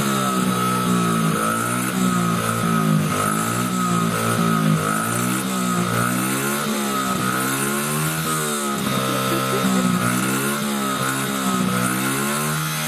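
Small children's motorbike engine running, its revs rising and falling over and over as the throttle is twisted open and let back.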